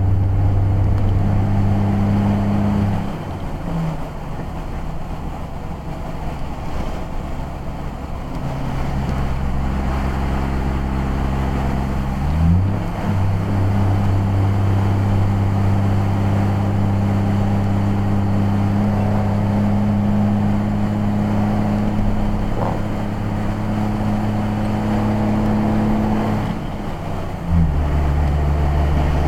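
Volkswagen Gol's engine running while driving, heard from inside the car over steady road noise. The engine note changes pitch several times as the engine speed changes, with one short rise in the middle.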